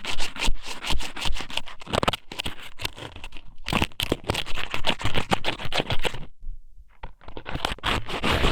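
Thin strips of squid (ika sōmen) pushed and rubbed inside a microphone's ear as ASMR ear cleaning, giving dense, irregular crackling and scratching right at the mic. There is a brief pause about six and a half seconds in, then it resumes.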